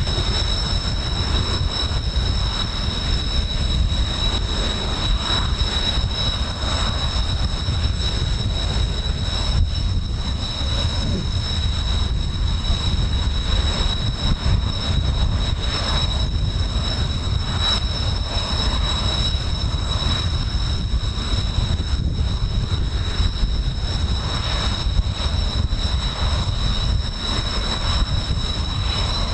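Jet aircraft engines running steadily, heard under heavy wind rumble buffeting the microphone, with a thin steady high whine.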